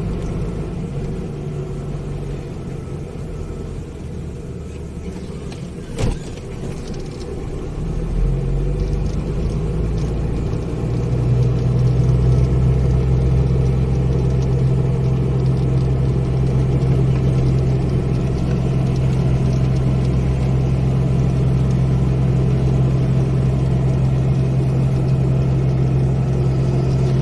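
Heavy truck engine running at low speed, growing louder about eight to eleven seconds in and then holding a steady drone. A single sharp click about six seconds in.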